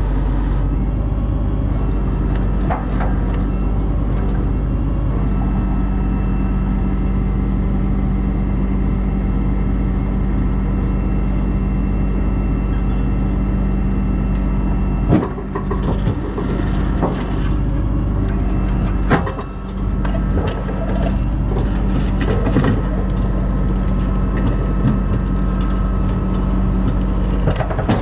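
Heavy tow truck engine running steadily during a winch recovery, with a few sharp metallic knocks about halfway through and again a few seconds later.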